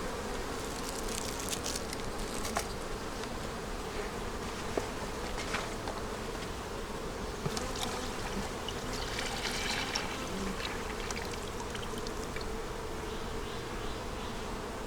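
Honey bees buzzing around an open hive in a steady hum, with a few light clicks over it.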